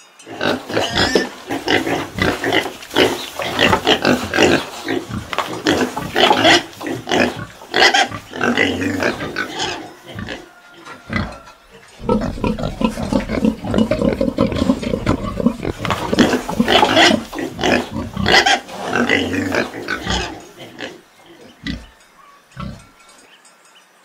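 Pig grunting in a dense run of short, irregular, noisy grunts that thin out to a few scattered ones over the last few seconds.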